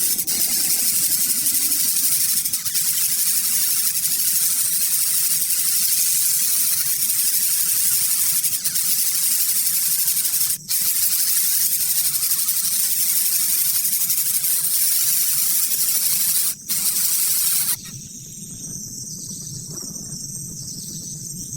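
A steady, loud hiss that drops out briefly twice. About eighteen seconds in it cuts to a quieter background of repeated insect chirps.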